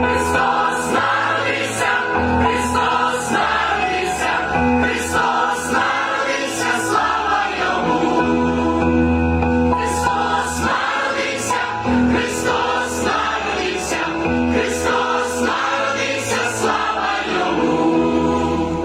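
A choir singing a Ukrainian Christmas carol (koliadka) in held chords of many voices.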